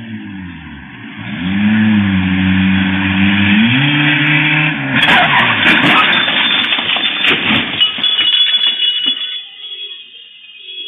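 Car engine revving up, holding steady, then rising in pitch again. About five seconds in, a loud rush of noise with sharp cracks takes over for about three seconds before fading.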